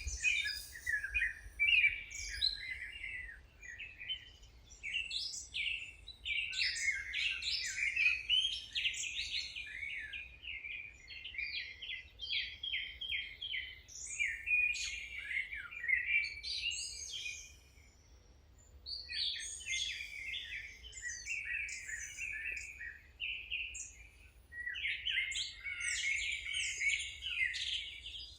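Songbirds singing, with rapid twittering and chirping phrases that overlap and come in bursts, and a short lull about two-thirds of the way through.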